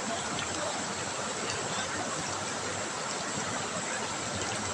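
River water trickling and babbling over stones: a steady rush that holds at one level.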